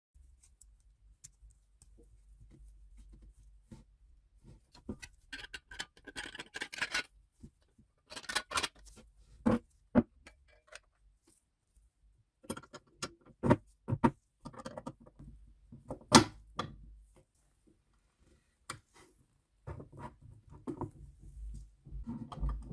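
Irregular clicks, taps and clinks of hand work with tools and small metal parts, some in quick clusters, over a low hum that is there at the start and returns near the end.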